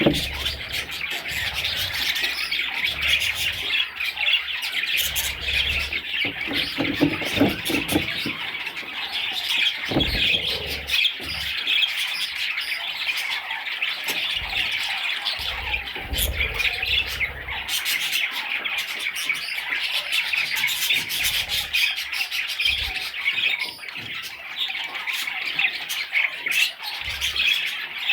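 A group of budgerigars chattering and chirping without pause, with sharper squawks here and there.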